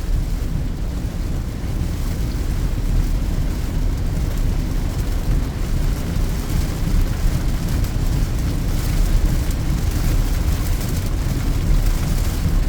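Inside a Peugeot 2008's cabin while driving uphill in heavy rain: a steady low rumble of engine and tyres on the wet road, with a hiss of rain and spray over it.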